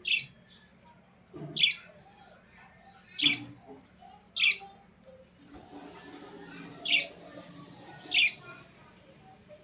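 A bird calling: six short, loud calls, about one every second or two.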